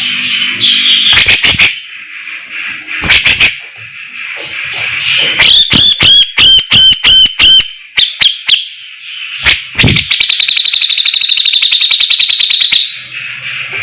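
Cucak jenggot (grey-cheeked bulbul) singing loudly. Sharp clicking notes come first, then a quick run of arched whistled notes about halfway through, and a rapid, even trill near the end.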